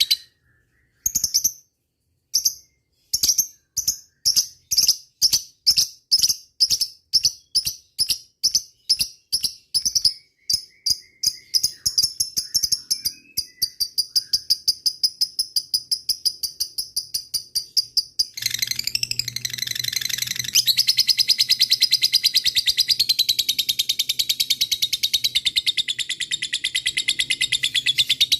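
Lovebird giving its long chattering 'ngekek' call: separate sharp, high chirps at about three a second speed up into a continuous rapid trill. About two-thirds of the way through, a low hum joins beneath the trill.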